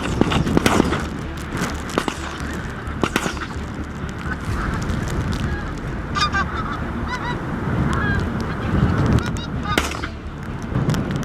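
Pink-footed geese calling in short, repeated high honks over steady wind rumbling on the microphone.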